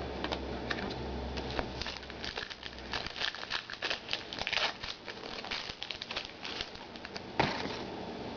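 Trading-card packs and cards being handled: a run of quick crinkling rustles and flicks of card stock, with one sharper click about seven seconds in.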